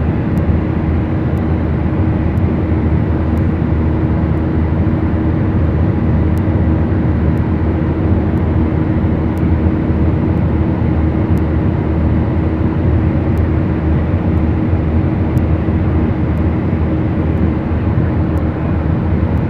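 Beechcraft Duchess twin-engine piston airplane heard from the cockpit, its two four-cylinder Lycoming engines and propellers running at a steady, unchanging drone. Faint ticks come about once a second.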